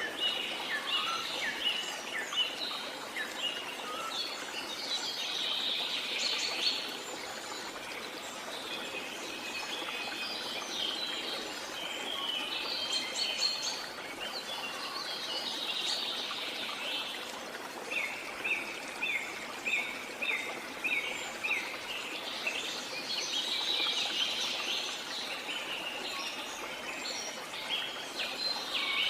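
Birds chirping and trilling over the steady rush of a jungle waterfall, the calls coming in clusters with a run of evenly repeated short notes midway through.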